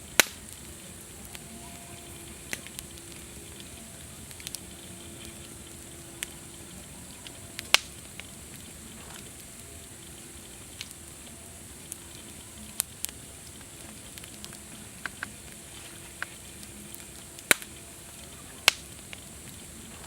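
Wood campfire crackling, with sharp irregular pops; the loudest come near the start, in the middle and twice near the end. Under them runs a steady high-pitched hiss.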